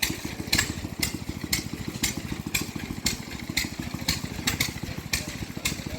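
An engine running steadily with a fast low pulsing, over a sharp click that repeats about twice a second.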